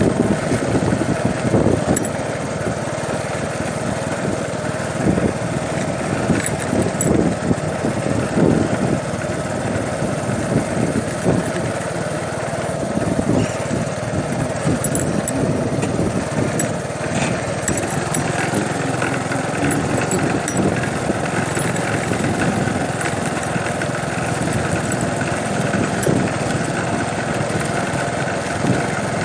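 A small engine running steadily and unbroken, with irregular low rumbling gusts mixed in.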